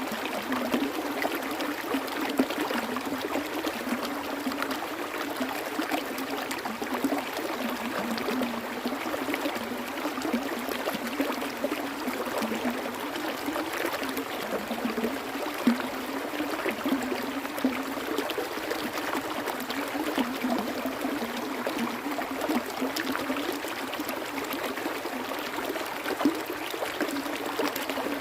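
Flowing water running and trickling over stones in a small stream, a steady burble with many small splashes.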